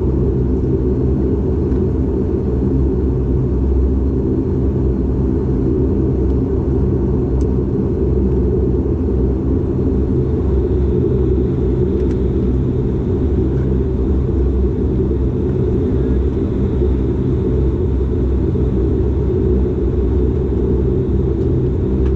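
Dash 8 Q400 turboprop's Pratt & Whitney PW150A engine and six-blade propeller running steadily: a constant drone made of several low pitched tones over a deep rumble. A faint high steady tone joins about halfway through.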